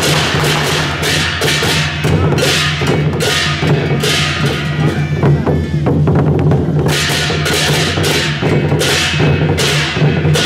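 Procession percussion: drums with cymbal crashes about twice a second, pausing briefly about halfway through, over a steady low hum.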